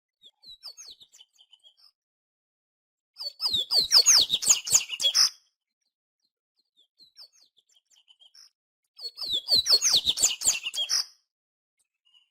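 A papa-capim (Brazilian seedeater) singing: two loud, rapid phrases of quick sliding chirps about six seconds apart, each preceded by softer scattered notes.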